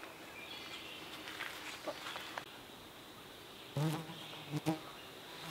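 A flying insect buzzing close to the microphone, in two short loud passes about four seconds in.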